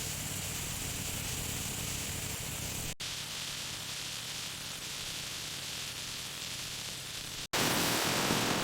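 Ostrich meat and gravy sizzling in a pan as it is sautéed, a steady hiss that cuts off abruptly about three seconds in and again near the end, coming back louder after the last break.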